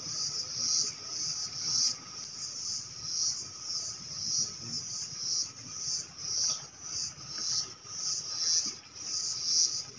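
Insects calling in a high-pitched chorus that swells and fades about twice a second, with a faint steady lower tone under it.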